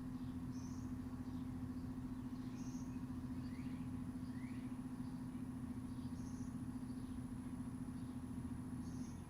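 A steady low mechanical hum, with short high bird chirps every two to three seconds and a couple of quick rising chirps. The hum eases slightly near the end.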